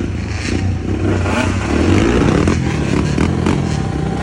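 Dirt bike engine running and revving unevenly through a rock garden, with several sharp clattering knocks about two and a half to three and a half seconds in.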